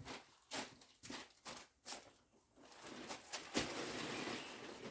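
Workshop handling noise: about five light knocks in the first two seconds, then about two seconds of steady scraping or rustling.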